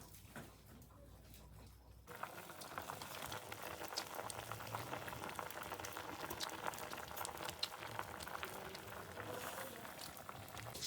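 Steady bubbling, crackling water noise with many small pops and clicks, starting abruptly about two seconds in.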